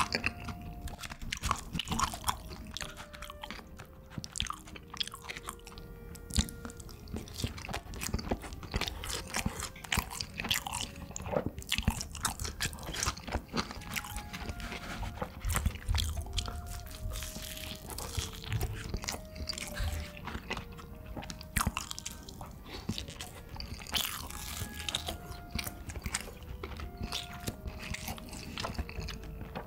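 Close-miked eating: repeated crunchy bites and chewing, crisp crackles coming irregularly throughout. A soft background melody of single held notes plays underneath.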